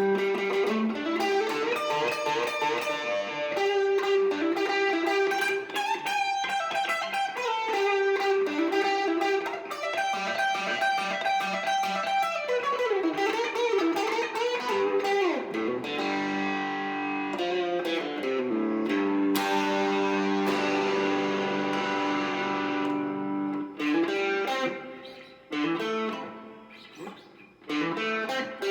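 Electric guitar, a Classic Vibe 70s Stratocaster with a humbucker played through a Marshall MG30DFX amp with some gain, jamming classic-rock riffs. About halfway there is a sliding, bending run, then a chord held and left to ring for several seconds. After that the playing thins out with short gaps and picks up again near the end.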